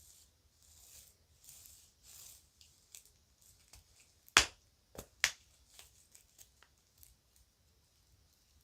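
Children's toy jewelry and a bag being handled: soft rustling, then a few sharp clicks and light ticks. The loudest click comes a little after halfway, and two more follow about half a second apart.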